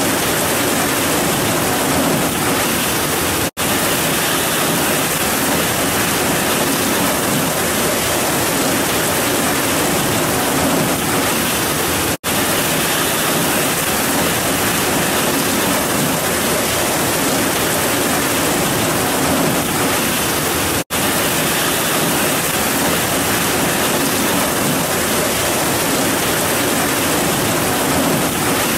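Heavy rain pouring down in a steady, dense hiss. The sound cuts out for an instant three times, about every nine seconds.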